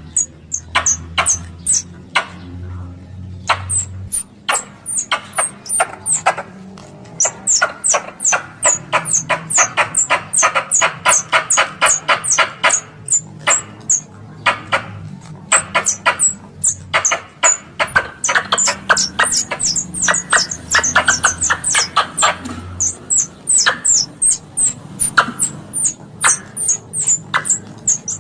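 Coconut squirrel (plantain squirrel) calls played as a hunting lure: long, loud runs of rapid sharp chips and chattering, several per second, with short high downswept squeaks.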